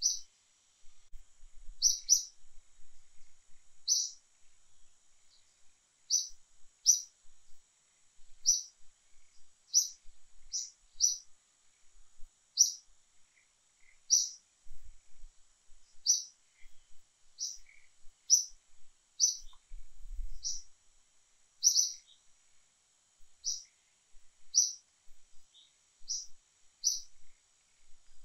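A bird calling over and over in short, high, sharp chirps, about one every second or so.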